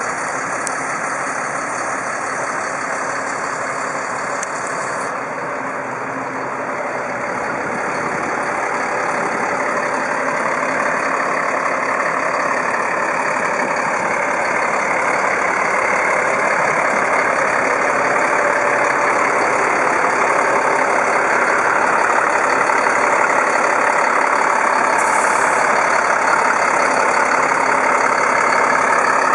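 Engine of a 2007 GMC medium-duty bucket truck running steadily. It grows gradually louder over the first half, then holds steady.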